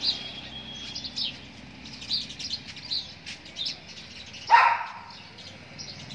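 Small birds chirping again and again, with a single loud dog bark about four and a half seconds in.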